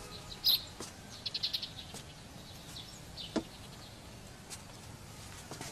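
Birds chirping with short, high calls, including a quick run of about six notes about a second in. A few sharp clicks sound among them.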